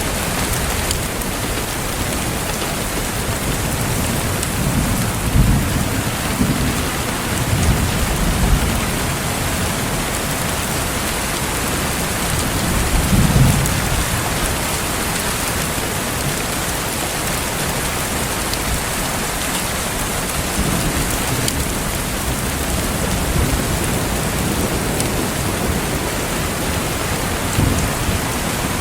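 Steady rain hissing, with low rumbles of thunder swelling up a few times, the strongest about five to eight seconds in and again around thirteen seconds.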